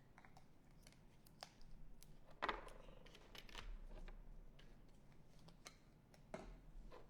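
Scattered small clicks and knocks of art supplies being handled on a tabletop, the loudest about two and a half seconds in and another near the end.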